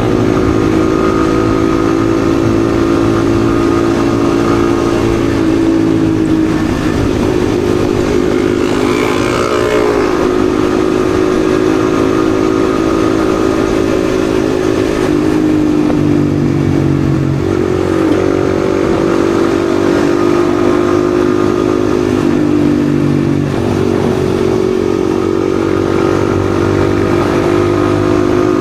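Yamaha XSR155's single-cylinder engine running under way at a steady pace, its pitch dropping and climbing back three or four times as the throttle changes.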